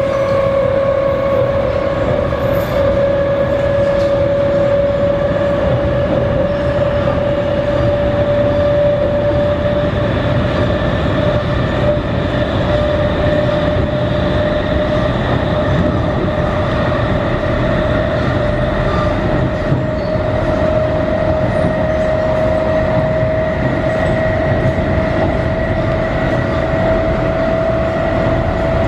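MTR East Rail MLR electric multiple unit's nose-suspended traction motors whining under power as the train gathers speed. The whine rises slowly and steadily in pitch over a constant rumble of wheels on track.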